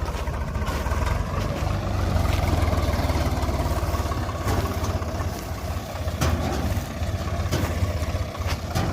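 Swaraj 735 tractor's three-cylinder diesel engine running steadily while driving a thresher, with the thresher's steady mechanical rumble and a few sharp knocks scattered through.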